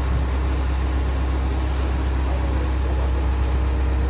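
A large engine idling steadily with a deep, even low hum.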